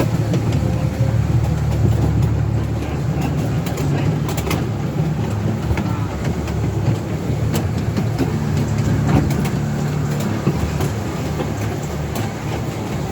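Miniature railway train running: a steady low rumble with irregular clicks from the wheels on the track.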